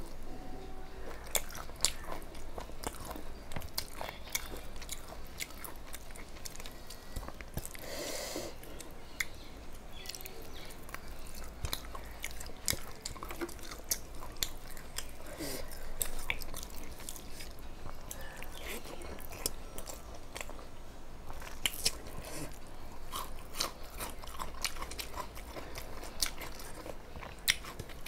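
Close-up chewing and mouth sounds of a person eating rice and chicken curry by hand, with many short sharp clicks and smacks throughout and a brief louder crunchy burst about eight seconds in.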